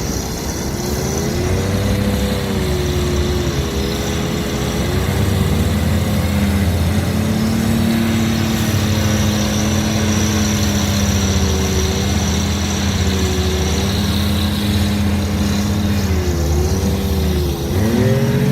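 Kirovets heavy articulated tractor's diesel engine running steadily under snow-clearing work. Its engine speed dips and recovers about a second in and again near the end.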